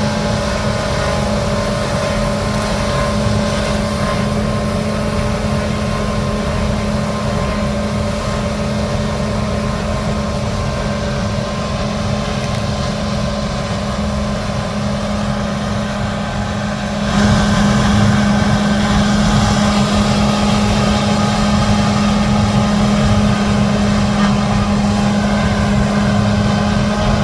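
Large diesel harvest machinery running steadily in a wheat field, with a constant engine hum under the mechanical noise. About two-thirds of the way through it suddenly gets louder and stays that way.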